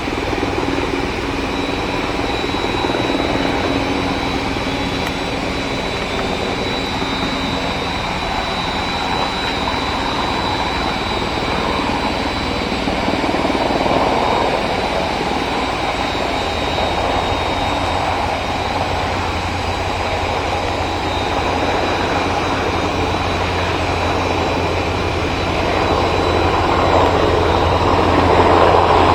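Army helicopter's rotor and turbine engine running steadily, the low rotor sound strengthening about halfway through and the whole growing louder near the end as it comes closer.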